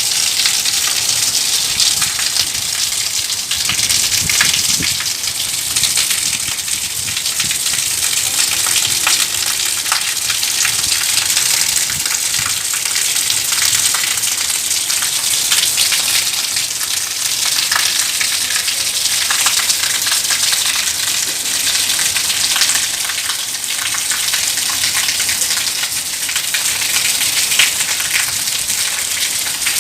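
Steady rain with dense pattering of drops on hard surfaces, strongest in the high hiss, with occasional louder individual drop ticks.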